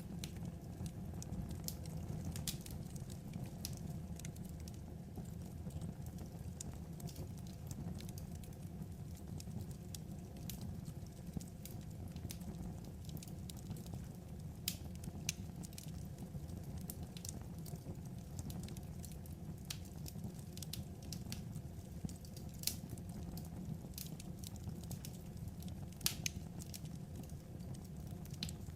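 Wood fire crackling: a steady low rumble with sharp pops and snaps at irregular intervals.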